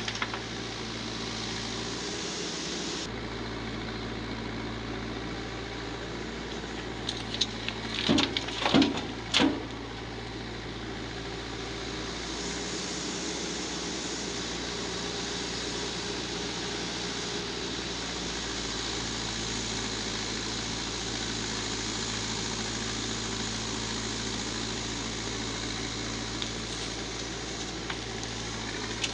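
Backhoe loader's diesel engine running steadily at a constant pitch, with a short cluster of knocks about eight to nine seconds in.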